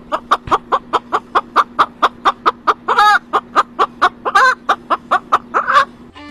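A bird making rapid, evenly spaced clucking calls, about four or five a second, with two longer drawn-out calls near the middle. A faint steady hum runs underneath.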